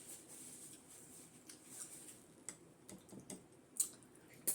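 Faint, irregular clicks and smacks of someone eating, with a few sharper ones near the end.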